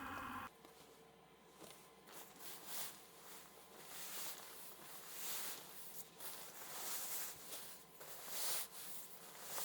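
A steady sound with several tones cuts off about half a second in. Soft, irregular rustling and handling noises follow, a swish every second or so.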